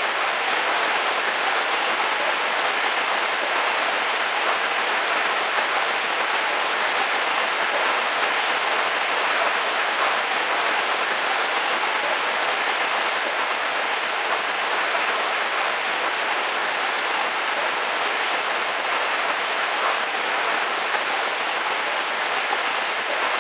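Heavy rain falling on a car roof: a steady hiss with scattered drop ticks, even in level throughout.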